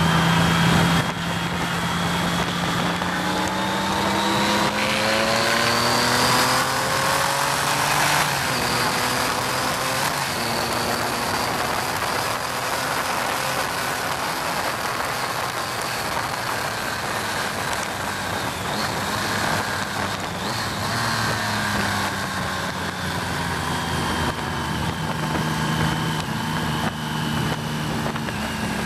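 1988 BMW K75's inline three-cylinder engine accelerating, rising in pitch over the first several seconds, then holding speed and easing off near the end, under heavy wind rush over the microphone.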